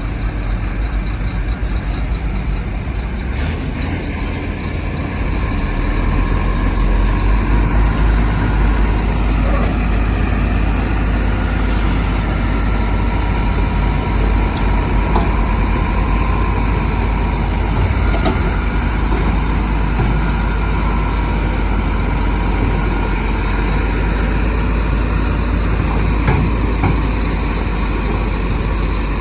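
Heavy diesel earthmoving machinery running steadily with a deep, low engine note, growing louder about five seconds in.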